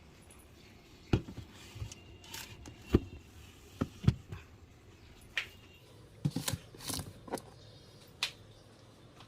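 Plastic food containers and boxes knocking and clattering as they are set into a refrigerator, about a dozen short, irregular knocks and clicks.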